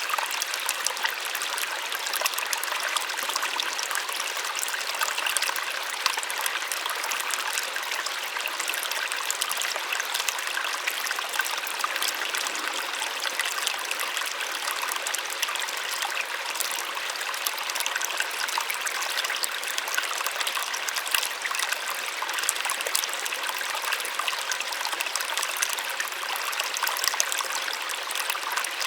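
Small waterfall splashing steadily, an even rushing hiss with fine crackling spatter and little low rumble.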